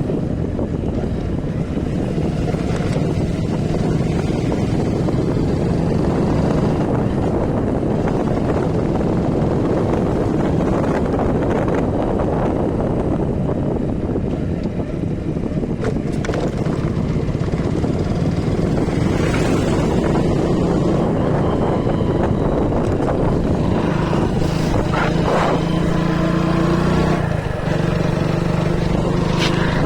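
Steady road and wind noise from a moving vehicle, with wind buffeting the microphone and an engine hum that comes and goes.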